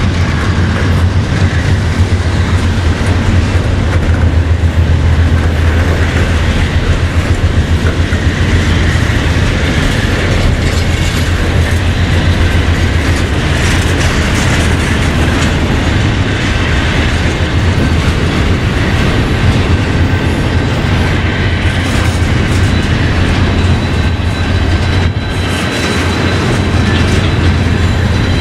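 Freight train cars rolling steadily past close by, steel wheels clicking on the rails under a deep continuous rumble.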